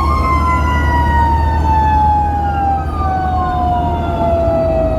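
Fire engine siren wailing, its pitch falling slowly and steadily across several seconds, over the low steady rumble of the truck's engine.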